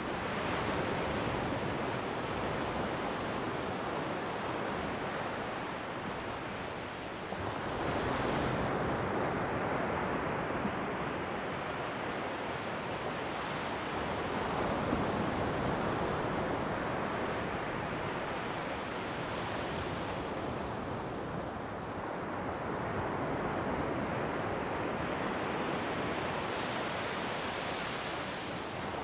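Ocean waves breaking and washing up the shore, the surf swelling and easing every several seconds.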